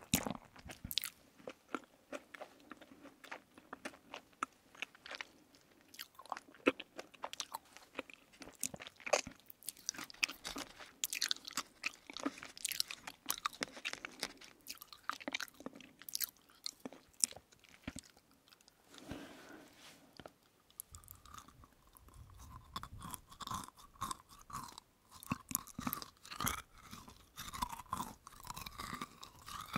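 Close-miked chewing of gummy berry jellies studded with sugar granules: many small crisp crunching clicks. In the last third it turns to a softer, lower chewing sound.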